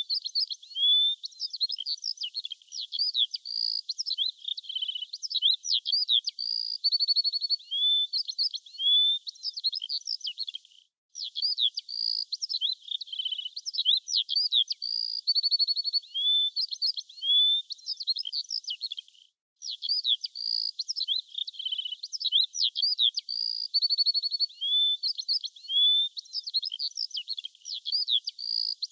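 Dense, high bird-like chirps, whistles and quick trills, all in a thin high band with nothing low, repeating as a looped background track. It cuts out briefly twice, about a third and two-thirds of the way through.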